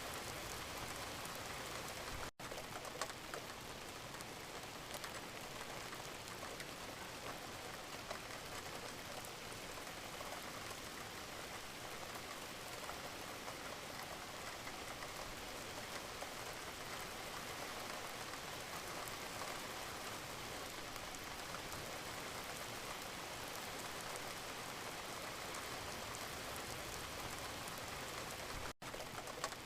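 Gentle steady rain, a dense patter of small drops, cutting out for an instant twice: about two seconds in and near the end.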